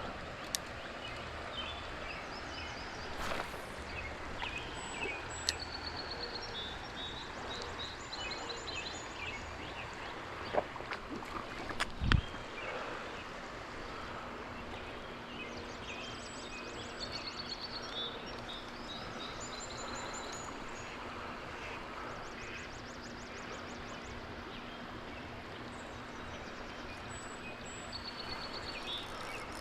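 Steady rush of running creek water, with birds chirping in short repeated trills throughout. A few knocks, and a louder thump about twelve seconds in.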